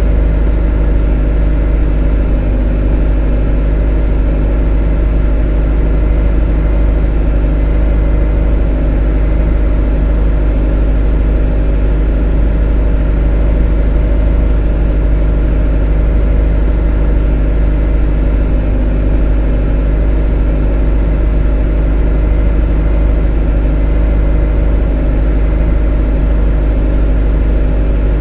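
A motor running at a steady speed: an even, unchanging drone, strongest in the deep low end, with several steady tones above it.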